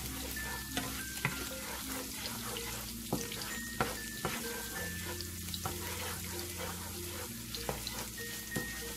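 Food frying in hot oil in a pan, with a steady sizzle, as it is stirred. About a dozen sharp clicks of the utensil against the pan are scattered through. A light background tune plays underneath.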